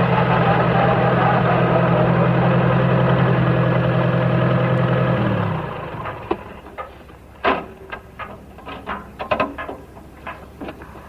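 Farm tractor engine running steadily, then shut off about halfway through, its pitch sagging as it stops. A scatter of sharp clicks and knocks follows.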